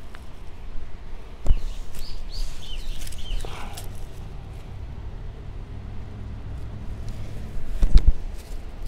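A few short bird chirps over outdoor background noise, with two sharp knocks: one about a second and a half in and a louder one near the end.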